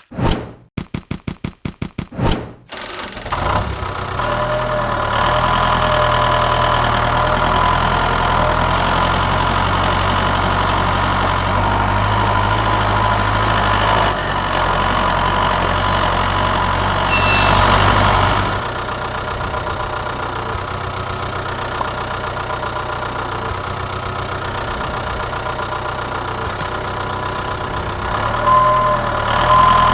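Small engine starting with a fast run of pops over about two seconds, then running steadily. Around 17 seconds in there is a short hiss, after which it runs a little quieter.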